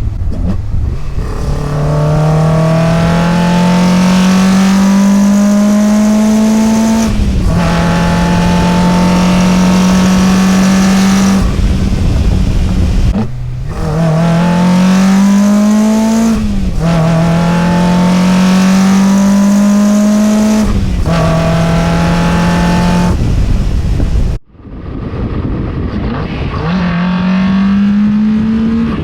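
A Mazda NC Miata's 2.55 L high-compression four-cylinder on BBR individual throttle bodies, accelerating hard. The engine note rises through the revs and drops back at each upshift, several times, with a brief lift-off in between. The sound breaks off abruptly about 24 seconds in, then the engine pulls up through the revs again.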